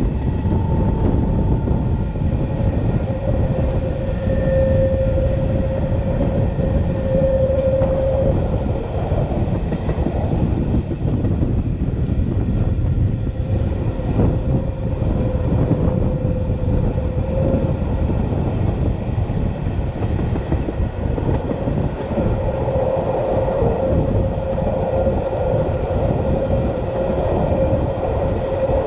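Matterhorn Gotthard Bahn train running, heard from on board: a steady rumble of wheels on rails with a low hum. A thin high squeal comes and goes twice, about three seconds in and again midway.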